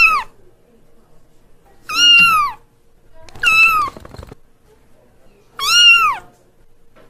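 Kitten meowing: the end of one meow at the very start, then three short, high meows about a second and a half apart, each rising and then falling in pitch.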